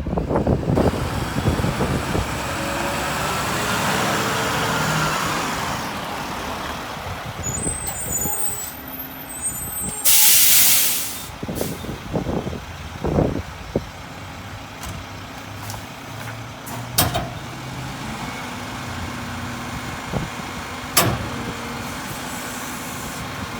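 Mack LR garbage truck's diesel engine revving up and settling back, then running steadily, with a loud air-brake hiss about ten seconds in and a few clanks afterwards.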